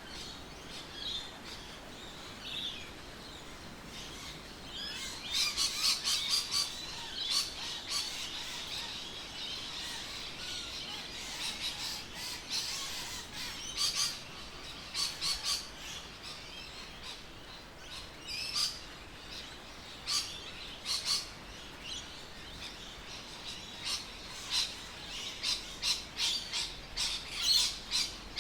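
Birds chirping: many short, high calls come in clusters throughout, some in quick runs.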